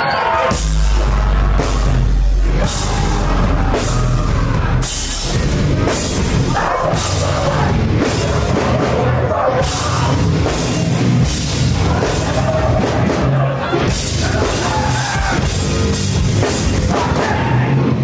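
A live heavy rock band playing loud and continuously: a drum kit with distorted guitars and heavy bass, the bass especially strong in the first few seconds.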